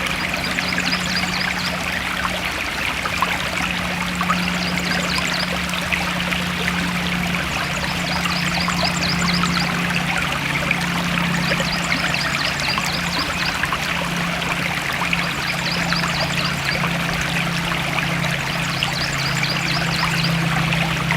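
Stream water flowing and trickling steadily, with short runs of high chirps recurring every few seconds over it and a steady low hum underneath.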